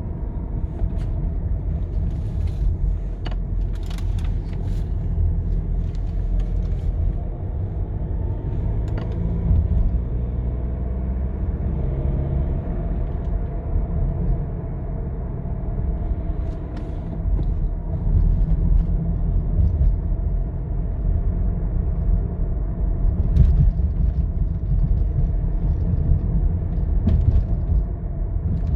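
VW Golf 7 2.0 TDI diesel engine running with a steady low rumble. Faint tones slide in pitch from about eight to fifteen seconds in: the owner's "sad owl" hoot from under the hood, which comes on a cold engine below 1600 rpm and which a new turbocharger has not cured.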